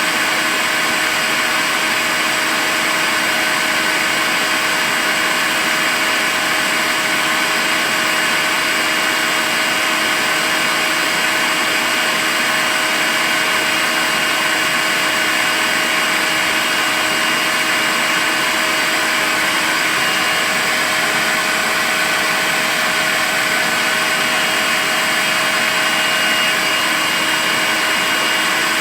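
Makita cordless vacuum cleaner running continuously at a constant speed: a steady rush of air with an unchanging motor whine.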